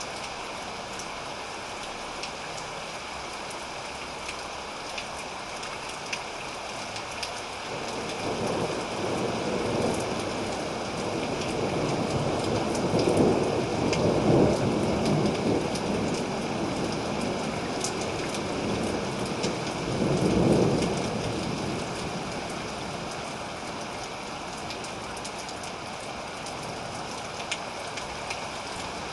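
Steady rain falling, with a long rumble of thunder that builds about a quarter of the way in, swells twice and fades away well before the end.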